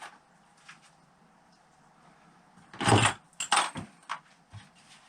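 A few sharp metallic clatters and knocks from engine parts and tools being handled on a workbench, starting about three seconds in after a quiet stretch.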